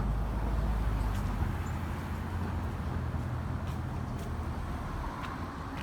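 Steady low rumble of city street traffic, with vehicles passing on the road.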